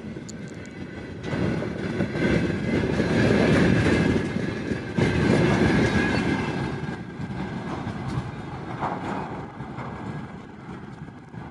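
Freight train of railway tank wagons rolling past close by, the wheels running over the rails. It is loudest in the first half, then fades as the end of the train passes and moves away.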